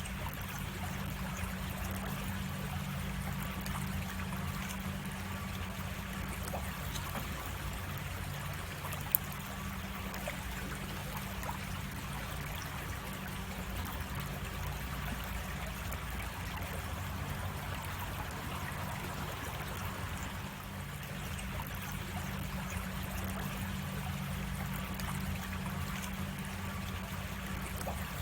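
Creek water running and trickling steadily, with a steady low hum underneath and one sharp click about nine seconds in.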